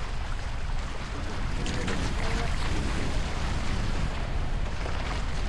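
Steady wind noise on the microphone over water rushing and splashing along the hulls of a Hobie 16 catamaran under sail.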